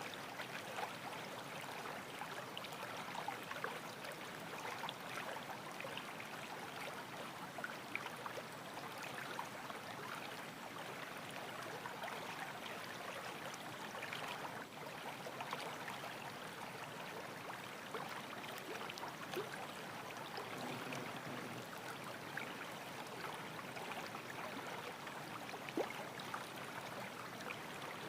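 Water of a small mountain streamlet running, a steady rushing flow with faint splashes.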